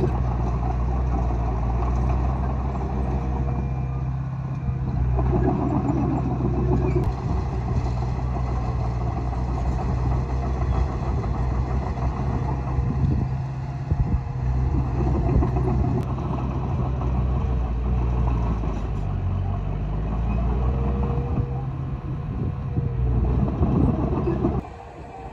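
Heavy diesel engine of earthmoving machinery running steadily under work, with a deep, even drone. The sound drops away suddenly near the end.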